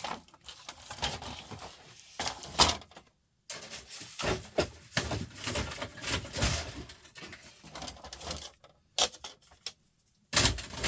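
Small laptop parts being handled and tossed onto sorting piles: a run of irregular clicks, knocks and light clattering, with a couple of short pauses and a louder clatter near the end.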